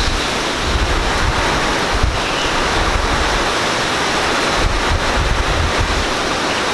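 Heavy, steady hurricane rain pouring down, with wind buffeting the microphone in uneven low rumbles.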